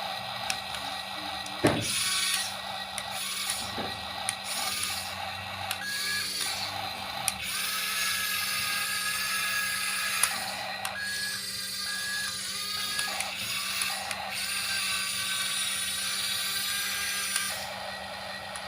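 Remote-control toy excavator's small electric motors and plastic gears whirring, starting and stopping in stretches of a few seconds as it is operated.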